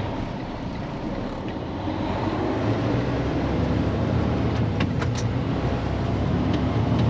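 Truck engine and road noise heard inside the cab while driving, a steady low rumble that grows a little louder about two to three seconds in. A couple of short clicks about five seconds in.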